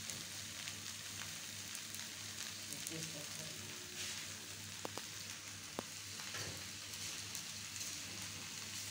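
Potatoes and masala sizzling in a steel frying pan while being stirred with a steel spatula: the potatoes being fried in the spice paste. A steady hiss with fine crackle, with a couple of light clicks about halfway through.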